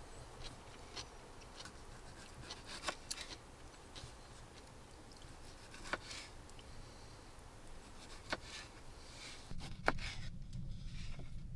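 Scattered light clicks and taps of small objects being handled, over a faint low background noise. Near the end the background changes to a stronger steady low rumble.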